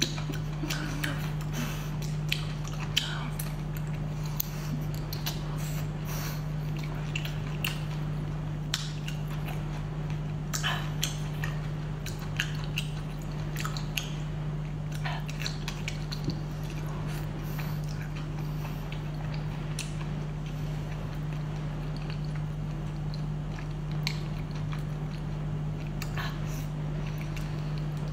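Close-up eating sounds of a person biting and chewing a whole cooked octopus: irregular wet smacks and sticky clicks. A steady low hum runs underneath.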